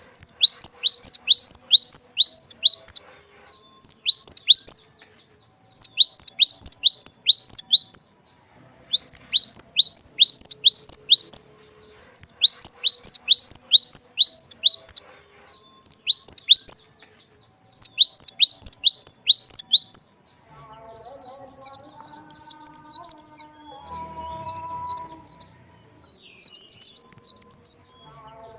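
Cinereous tit (glatik batu) singing loud, clear phrases of rapid, sharp, down-slurred whistled notes. The phrases come in bursts of one to three seconds with short pauses between. About two-thirds of the way through, the song switches to a faster phrase of looping up-and-down notes.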